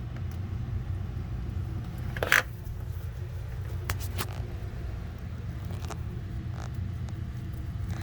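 Refrigerator racks and shelving being handled and set in place: a sharp clatter about two seconds in, then a few lighter clicks. A steady low hum runs underneath.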